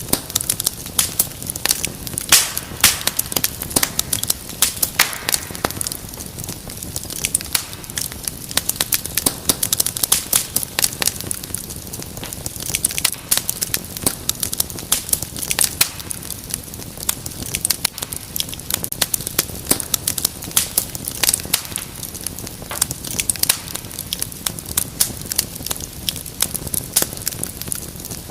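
Fireplace fire crackling: a steady stream of small pops and snaps, with a few louder ones standing out.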